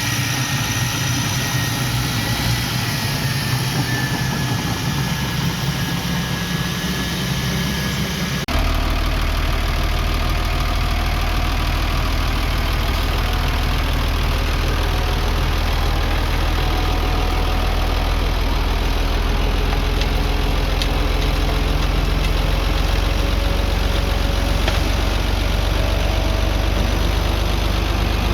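Heavy diesel machinery engines running at a low, steady speed. About a third of the way in the sound changes abruptly to a deeper, steadier engine drone.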